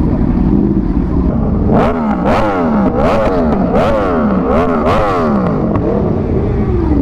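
An engine running, then revved hard over and over, rising and falling about twice a second, with a sharp crack at the top of each rev; it settles with one long falling drop near the end.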